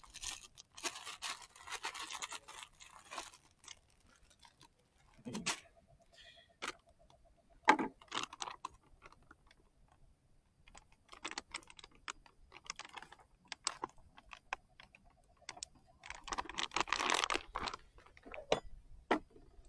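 Handling of cooking gear and food packaging: intermittent rustling and crunching, with scattered light clicks and knocks.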